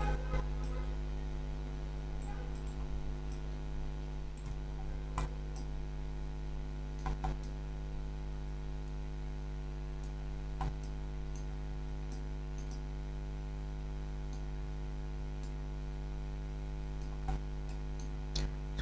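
Steady electrical mains hum from the recording setup, with a few scattered clicks from a computer mouse and keyboard while editing a 3D model.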